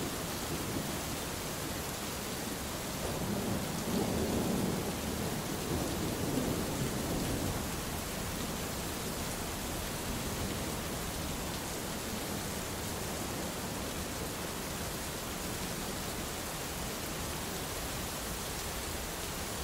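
Steady heavy rain hissing, with a low roll of distant thunder swelling a few seconds in and dying away, leaving the rain alone.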